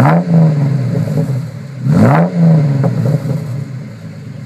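1999 Ford Explorer's 4.0-litre SOHC V6 revved through its dual exhaust tips. A rev at the start and another about two seconds in, each rising then falling back, before it settles to a steady idle.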